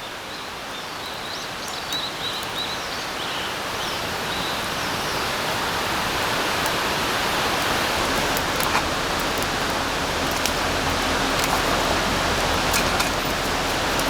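Steady rain falling on a forest, swelling over the first several seconds, with scattered sharp drip-like ticks. Birds chirp faintly in the first few seconds.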